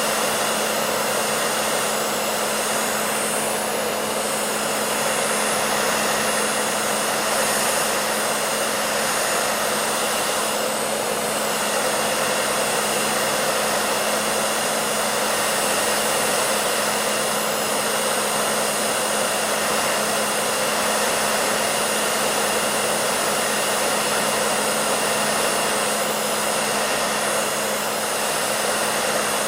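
Hair dryer running steadily: an even rush of blown air with a low motor hum and a faint high whine, unchanging throughout.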